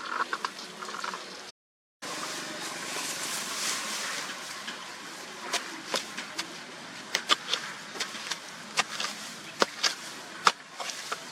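Food frying in hot oil in a pan: a steady sizzling hiss with sharp pops and crackles that come thick and fast in the second half.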